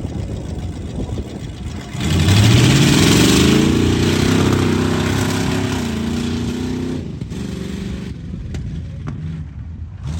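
Off-road competition truck engine running, then revving hard about two seconds in. Its pitch climbs and wavers under load for several seconds, then eases back to a lower running note.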